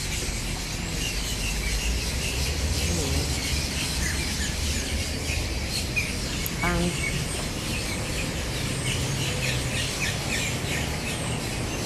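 A large flock of birds chattering in the trees as they settle to roost at dusk: a dense, continuous mass of short chirps and calls.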